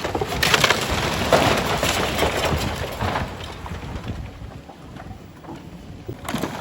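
Building demolition: rubble and debris crashing and crumbling in a dense crackle of many small impacts, strongest in the first few seconds, dying down, then picking up again near the end.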